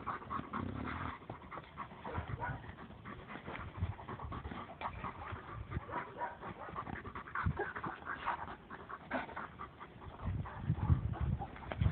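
Dog panting close by, with a few low thumps near the end.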